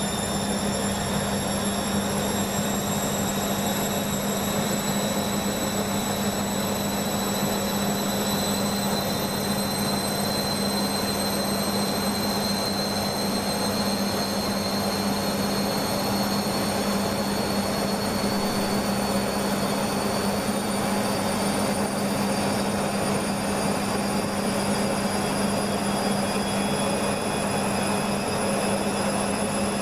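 Beko washing machine's drum motor running a spin held back by a suds lock, with too much detergent foam in the drum. A steady hum carries under a high whine that rises slowly in pitch as the drum gradually gains speed.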